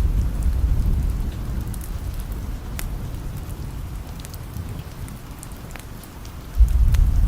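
Steady rain hiss with low rolling thunder. The rumble dies away over the first few seconds, then a new roll of thunder sets in suddenly near the end. Scattered sharp ticks run through it.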